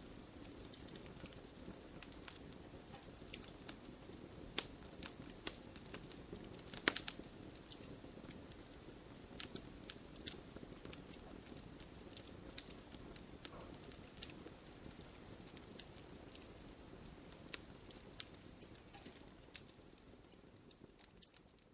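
Wood fire crackling in a fireplace: irregular sharp pops and snaps over a low steady rumble of flames, a louder cluster of pops about seven seconds in. The sound fades down near the end.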